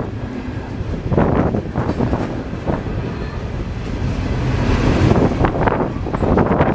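Freight train rolling past with a steady low rumble, swelling with hiss about five seconds in, while wind buffets the microphone in gusts.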